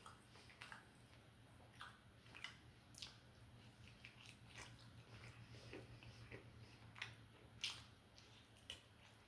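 Close-miked chewing and biting of food, heard as irregular short clicks at a low level, the loudest about three-quarters of the way through, over a faint steady low hum.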